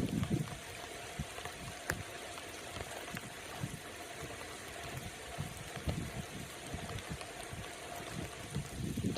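Steady rain falling, heard as an even hiss, with soft irregular low thumps underneath.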